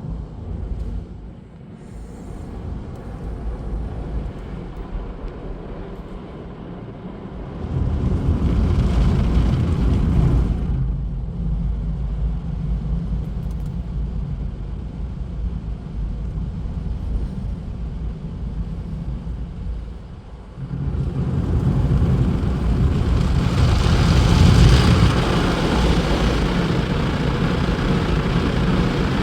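Automatic car wash equipment running: a steady low rumble with a spray-like hiss. It swells about eight seconds in, eases, then swells again about twenty-one seconds in.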